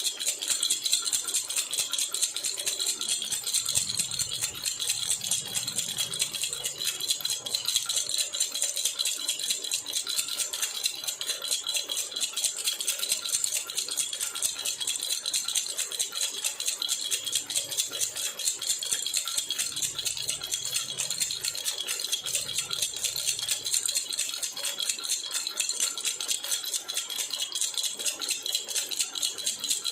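Silver jhunjhuna baby rattle shaken steadily and fast, a continuous bright jingle of small metal bells.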